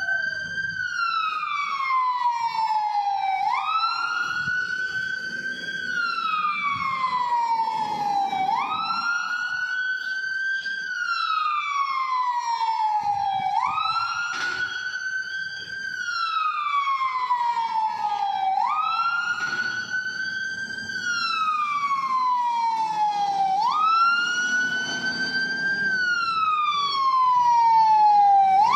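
Emergency vehicle siren wailing: a quick rise in pitch, then a slow fall, repeating about every five seconds, with vehicle engine and road noise underneath.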